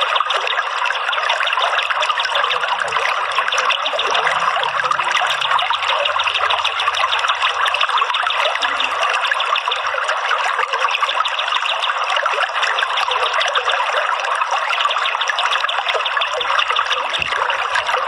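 Running water trickling and splashing steadily, a continuous water-flow sound of the kind used as a soothing 'therapy' background for songbirds.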